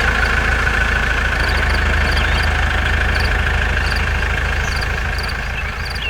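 Fiat 640 tractor's diesel engine running steadily, with a steady higher hum over its low rumble.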